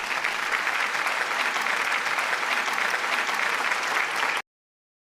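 Applause from a crowd clapping, which cuts off suddenly.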